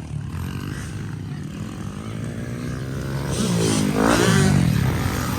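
Pit bike engine running, with its pitch sweeping sharply up and back down a little over three seconds in as it is revved hard.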